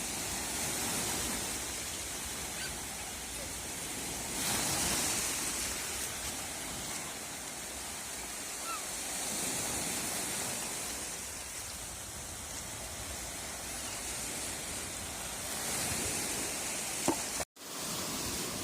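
Sea waves washing ashore: a steady rush of surf that swells louder every few seconds. The sound cuts out for an instant near the end.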